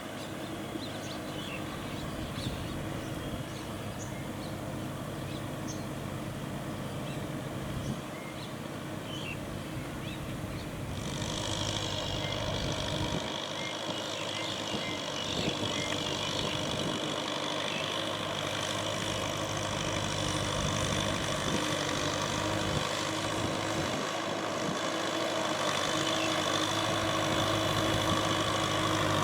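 Kubota M6040SU tractor's four-cylinder diesel engine running steadily and growing slowly louder. About eleven seconds in, a high whine joins the engine and holds to the end.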